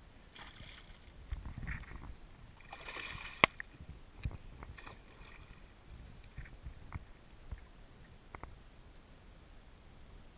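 Water splashing and sloshing around a kayak as a hooked redfish is brought alongside, with one sharp knock about three and a half seconds in, the loudest sound, then a few light scattered knocks.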